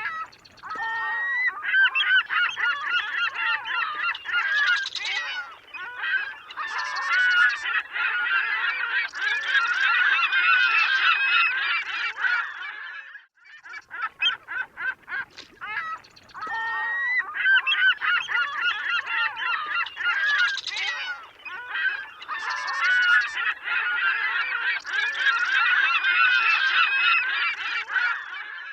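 A flock of seagulls calling, many harsh cries overlapping. It breaks off briefly about halfway through, and the same stretch of calls then repeats as a loop.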